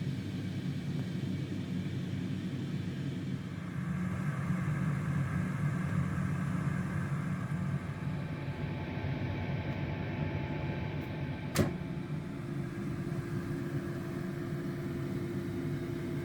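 Cosori dual-zone air fryer running, a steady fan hum. There is a single sharp click near the middle, and a faint steady tone joins about two-thirds of the way through.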